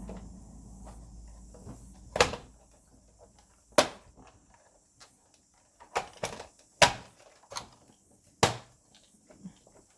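Sharp plastic clicks and knocks from projector parts being handled and pried apart during a teardown, about eight separate strikes. A low hum fades out over the first two seconds.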